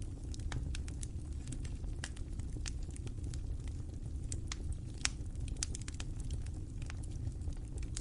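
Wood fire crackling in a fireplace: a steady low rumble of the flames with many small irregular pops and snaps, a few sharper ones standing out.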